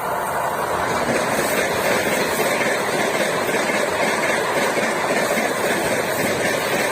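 Gatiman Express train rushing past at high speed, around 160 km/h: a loud, steady rush of wheels on rail with rapid clickety-clack.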